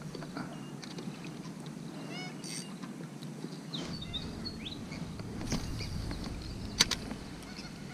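Outdoor ambience with a steady low background noise and birds chirping: a quick run of short chirps about two seconds in, a few sliding calls around four seconds. A single sharp click comes about seven seconds in.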